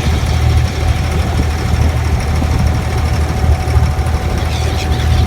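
Boat engine running steadily: a constant low drone with a steady hum above it.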